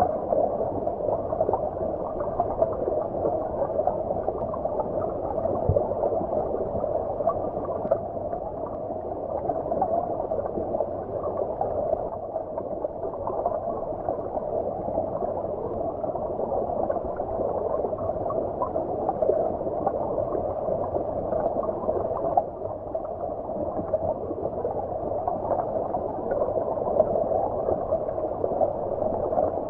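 Stream water heard underwater: a steady, muffled wash with irregular gurgles, its high end missing.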